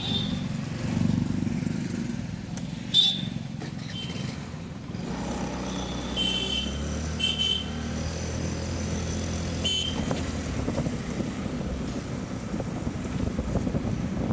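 Motorcycle engine running on the move, a steady low hum, with a few short high-pitched blips over it.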